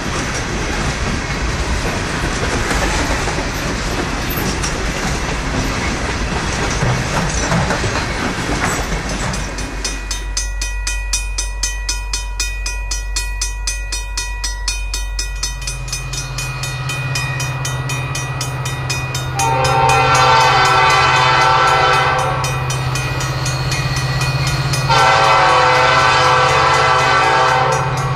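A train rattles and clatters for several seconds, then the diesel engine of an EMD SD50 locomotive runs steadily. Its Nathan five-chime air horn sounds two long blasts of about three seconds each, the first past the middle and the second near the end.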